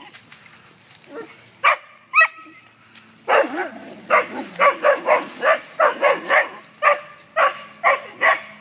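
A dog barking: two single barks, then from about three seconds in a fast run of sharp barks, about three a second.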